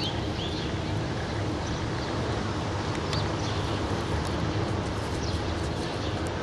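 Steady low drone of a ship's engines, with a few short high chirps near the start and about three seconds in.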